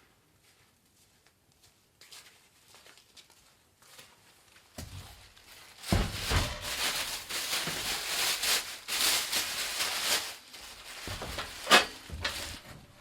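Handling noises: near silence at first, then rustling and scraping that grows busy about five seconds in, with one sharp knock near the end.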